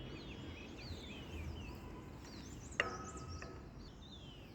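Faint outdoor background of birds calling, repeated short whistles that fall in pitch, over a low steady rumble. A brief, sharper call stands out about three seconds in.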